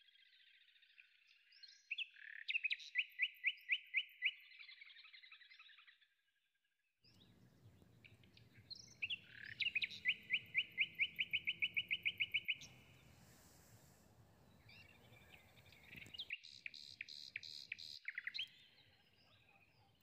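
A songbird singing three separate song phrases several seconds apart, each a fast trill of about five or six repeated notes a second.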